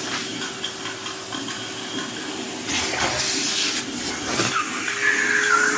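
Henry cylinder vacuum cleaner running with a steady motor hum and hissing rush of air. The rush grows louder about three seconds in.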